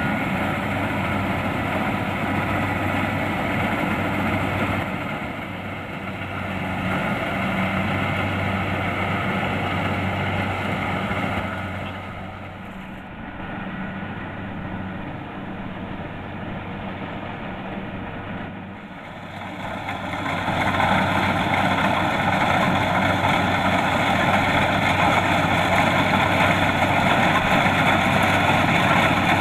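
Kubota DC-70 Plus combine harvester's diesel engine running steadily. It grows fainter for several seconds in the middle and then louder again for the last third.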